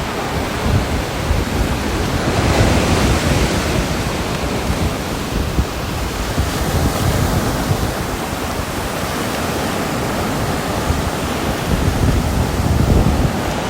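Steady heavy rain, a dense even hiss, swelling louder and deeper a few seconds in and again near the end.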